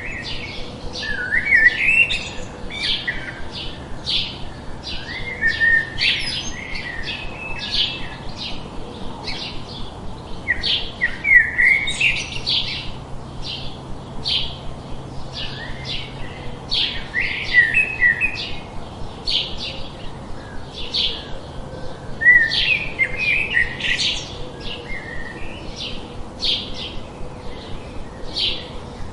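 Songbirds chirping and singing: short high chirps repeating about twice a second, with a warbling song phrase breaking in every five seconds or so.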